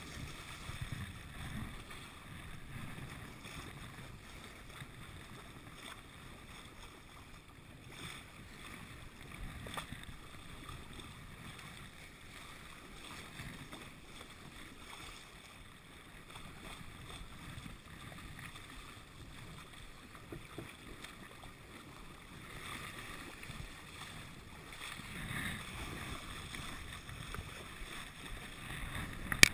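Steady wash of water along a sailboat's hull as it moves slowly in light wind, with a little wind on the microphone and a few faint knocks.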